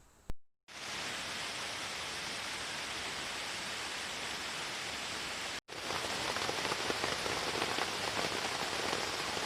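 Steady rain, starting abruptly just under a second in after a click and a moment of silence. After a brief break about halfway, the rain comes back a little louder, with many individual drops audible.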